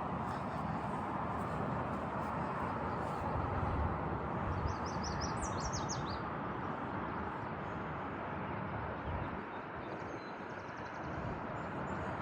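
Steady outdoor background noise with an uneven low rumble. A small bird sings a quick run of high chirping notes about halfway through, and a fainter run follows near the end.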